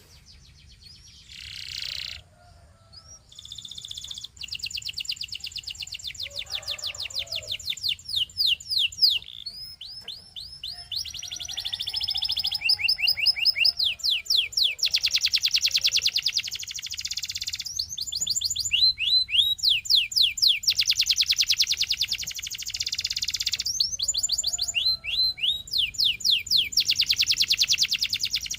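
Belgian singing canary in full song: long fast trills of rapidly repeated high downward-sweeping notes, phrase after phrase, each run changing speed and pitch, with short breaks between.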